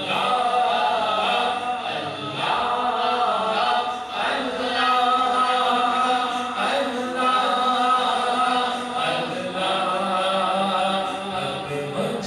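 A male voice singing an Urdu naat without instruments, in long held, melodic phrases with a heavy echo effect, over a backing of layered voices.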